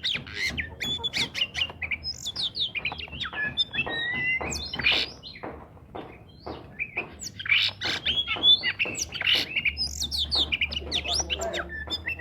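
Oriental magpie-robin (kacer) singing actively, its natural song: a fast, varied run of clear whistles mixed with harsh, squawky notes, easing off briefly about halfway through before picking up again.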